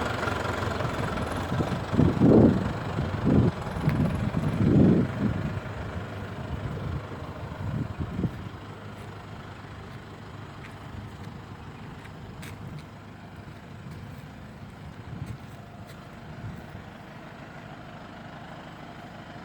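Tractor engine running, with several loud low surges in the first few seconds; after about eight seconds it drops to a much quieter, steady distant hum.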